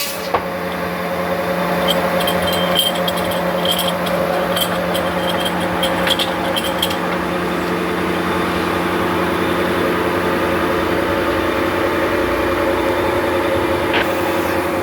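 Sawmill machinery running steadily, a motor hum holding several fixed pitches, with light metallic rattling or clicking for a few seconds early in the sound.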